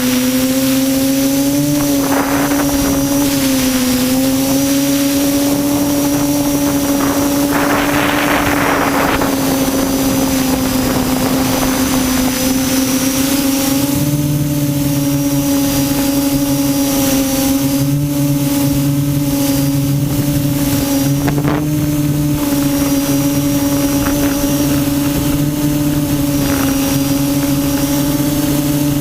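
A quadcopter's electric motors and propellers humming steadily in flight, the pitch wavering slightly. A lower buzz comes and goes, and there are short rushes of air noise a couple of times.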